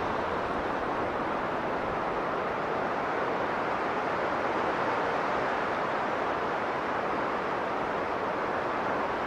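Strong blizzard wind blowing in a steady, even rush, with no gusts or breaks.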